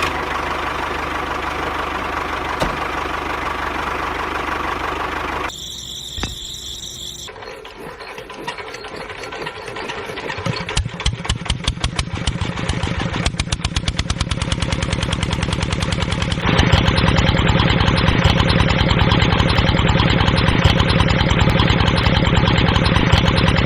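Tractor engine chugging at a rapid, even beat, with a break in the sound a few seconds in. It becomes louder about sixteen seconds in.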